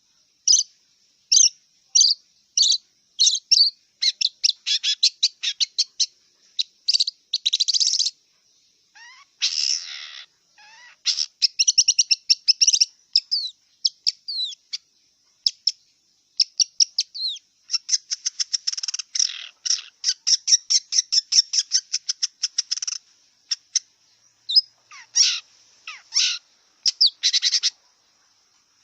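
Long-tailed shrike (cendet) singing a varied song of sharp high notes and fast rattling trills, broken by short pauses, with a harsher buzzy phrase about ten seconds in.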